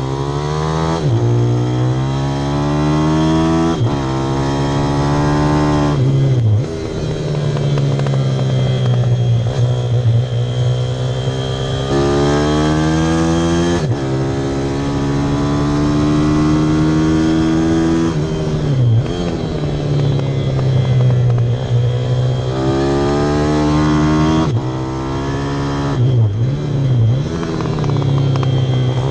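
Pit bike's single-cylinder four-stroke engine ridden hard on track, its note repeatedly climbing in pitch under throttle and then dropping sharply as it shifts or backs off for corners, several times over.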